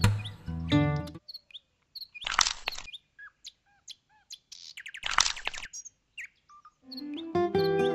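Bird chirps, short and scattered, between stretches of background music that stops about a second in and comes back near the end. Two brief rushing noises break in among the chirps.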